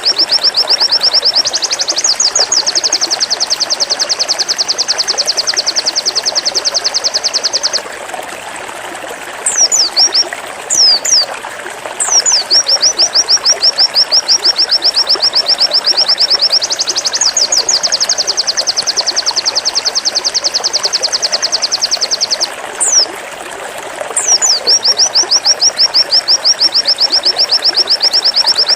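A pleci (white-eye) sings its 'zipper' song: long, rapid runs of high, evenly repeated notes, each run lasting several seconds and stepping up in pitch partway through. Twice the run breaks off into a few single down-slurred chirps before it starts again.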